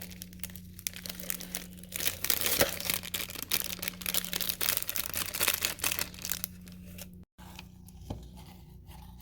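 Plastic packaging crinkling and tearing in quick crackly bursts, densest in the middle few seconds, over a steady low hum.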